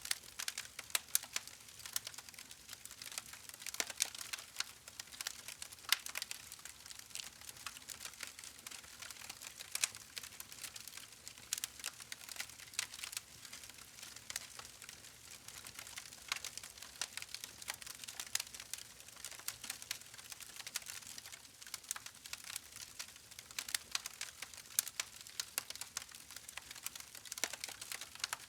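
Campfire crackling: a dense, irregular run of small snaps and ticks, with a louder pop every few seconds.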